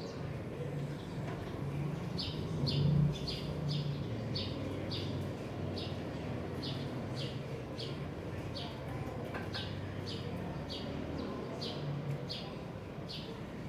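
A small bird chirping over and over, short high chirps at about two a second, starting a couple of seconds in.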